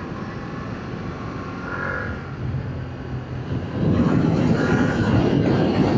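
Yamaha MT-07's parallel-twin engine running on the stock exhaust while riding, with wind and road noise. About four seconds in it gets louder as the throttle is opened.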